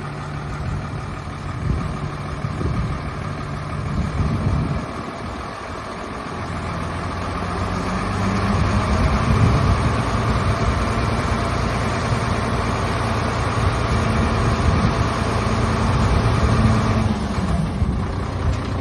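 Diesel engine of a HOWO 6x4 dump truck running, first at idle, then at higher revs from about six seconds in, easing back down near the end.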